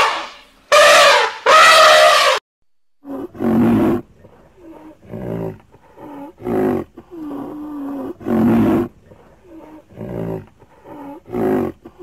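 An elephant trumpets twice, loud and brassy, in the first two seconds. After a brief pause, a large animal gives a series of low, short roaring calls, one every second or so, with one longer, steadier call in the middle.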